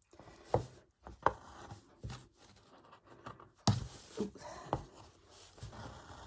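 Hand-embroidery handling noise: rustling and scratching as wool is stitched through fabric stretched in an embroidery hoop, with about six sharp knocks scattered through it.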